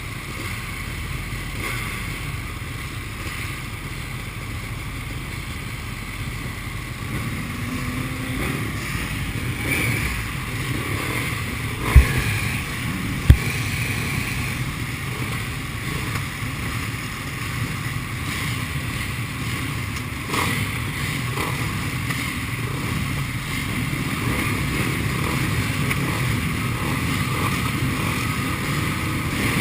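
Sidecarcross outfits' engines running in the distance under a steady wash of wind noise on the microphone, with two sharp knocks a little over a second apart about twelve seconds in.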